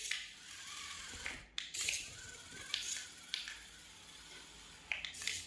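Small RC mini tractor being driven, its little electric motor giving a faint steady hiss with scattered sharp plastic clicks.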